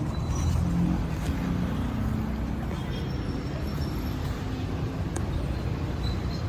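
Steady low rumble of a road vehicle running, with road noise.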